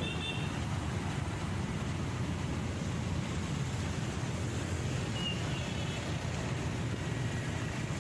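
Motorcycle riding noise: a steady engine and road rumble mixed with wind on the microphone, with traffic around. There is a brief high-pitched tone at the start and another about five seconds in.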